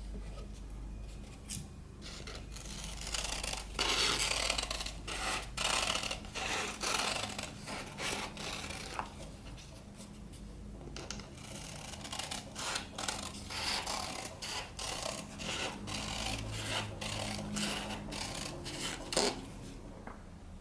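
Paper being handled and shaped by hand: irregular rustling and rubbing with scattered small clicks.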